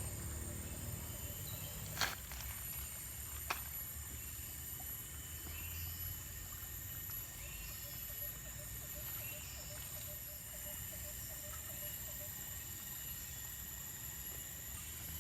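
Rainforest insects droning steadily in several high tones, with two sharp clicks, the first about two seconds in and the second a second and a half later.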